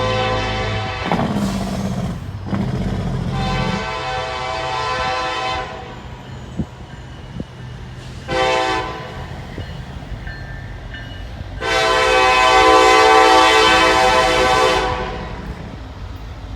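Diesel locomotive's multi-chime air horn sounding the grade-crossing signal: the end of one long blast, then another long blast, a short one and a final long blast. A low engine rumble sits under the first few seconds, and a couple of sharp clicks come between the blasts.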